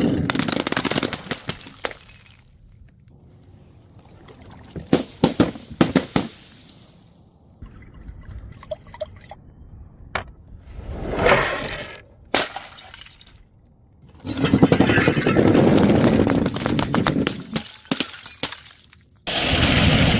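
Glass breaking and crunching in several separate bouts, each a dense run of cracking and crackling, with short quieter pauses between.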